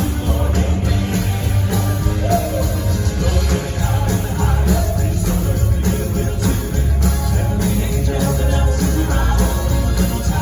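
Live band music with sleigh bells jingling over a steady, heavy bass beat, from a Christmas gospel song.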